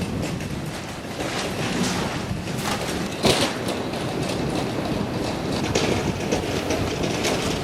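Wood-Mizer LT28 portable band sawmill running, a steady rushing noise with irregular clanks and clicks, the loudest knock about three seconds in.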